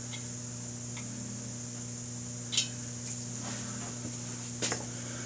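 Steady electrical mains hum with a faint high hiss, and a few faint clicks and taps of small things being handled, one about a second in, one past the middle and one near the end.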